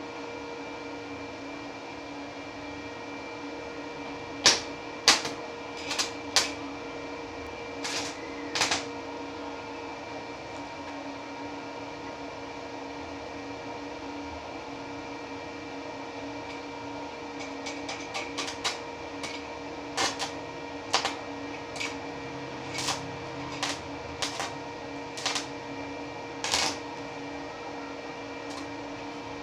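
A steady machine hum made of several constant tones, with sharp clicks and knocks scattered over it in two irregular runs.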